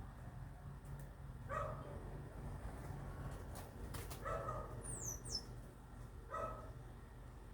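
A dog barking, short single barks about every two seconds. Two quick falling chirps from a small bird come about five seconds in.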